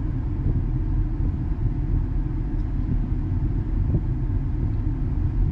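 Ford F-450 Super Duty's 6.7-litre Power Stroke V8 diesel running steadily while parked, during a scan-tool-commanded DPF regeneration.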